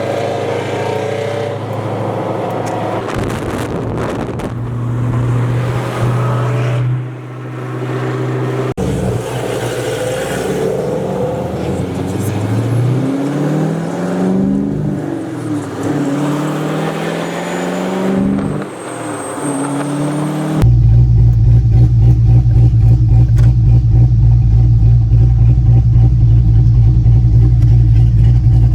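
A car engine running and revving, its pitch rising and falling through several accelerations, broken by sudden cuts between clips. In the last part it settles into a loud, steady low drone.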